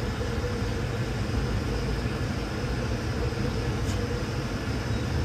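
Steady low mechanical drone of running boiler-room equipment, with a faint steady hum over it.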